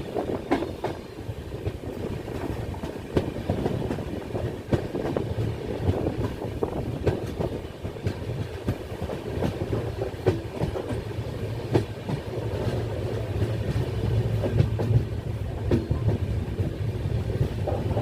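A moving train: a steady low rumble of wheels on track, with irregular clickety-clack clicks as the wheels cross rail joints.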